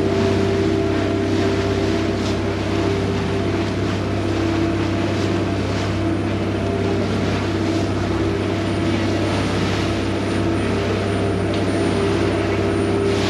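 Vaporetto water bus engine running steadily under way, an even hum that holds without change.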